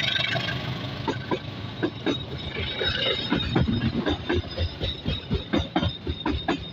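Train cars rolling past, the wheels clattering in quick, uneven clacks over the rail joints above a steady rumble.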